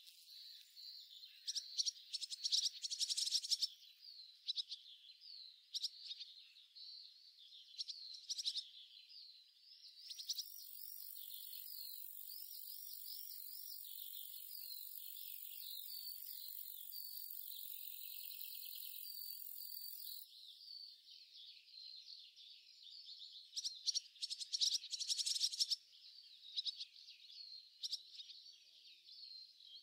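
Faint high chirping, like small birds calling, with a steady high-pitched hiss from about a third to two thirds of the way through.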